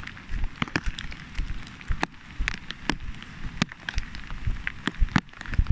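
Raindrops pattering on the plastic bag around the phone: irregular sharp taps, several a second, over a low rumble.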